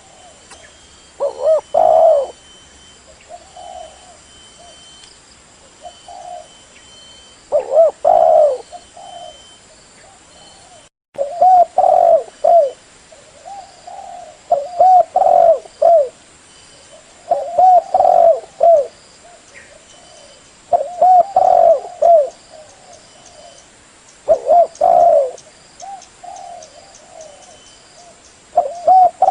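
Spotted dove (tekukur) cooing, as used for a lure call: short phrases of low coos repeated every few seconds, coming closer together in the second half.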